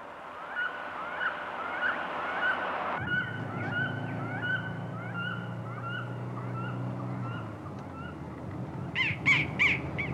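A car engine runs at a steady pitch from about three seconds in, under a short high chirp that repeats about twice a second. Near the end come three loud, short shrieks in quick succession.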